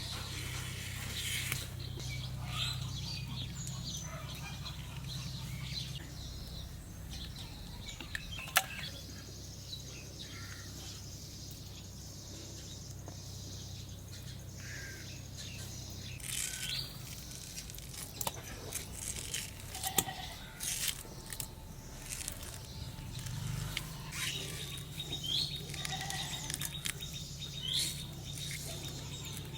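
Birds chirping in short scattered calls over a steady low hum, with one sharp click about eight seconds in.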